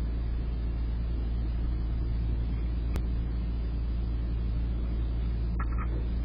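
Steady low rumble, like distant road traffic, with a single sharp click about three seconds in and a short high chirp near the end.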